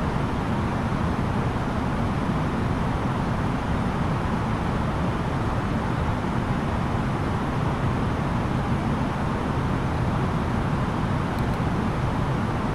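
Steady roar of engine and airflow noise inside the cabin of an Airbus A330-900neo airliner, its Rolls-Royce Trent 7000 engines running evenly, with no change in level or pitch.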